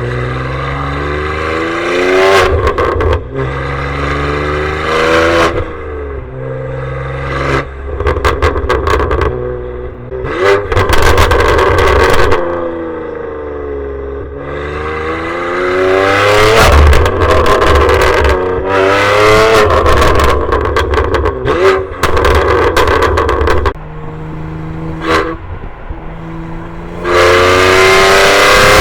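BMW G87 M2's twin-turbo inline-six, exhaust valves open, accelerating hard through the gears of its six-speed manual. The note climbs in pitch several times and drops back at each shift, holds steady between pulls, and winds down once in a long fall. It is very loud and the recording distorts from clipping.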